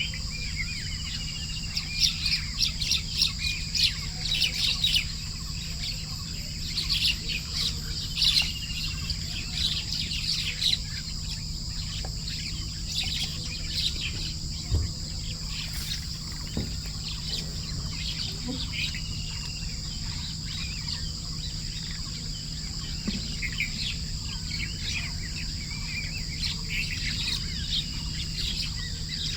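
Songbirds chirping and singing in a busy chorus of short calls and trills, thickest in the first ten seconds, over a steady high-pitched hiss and a low hum.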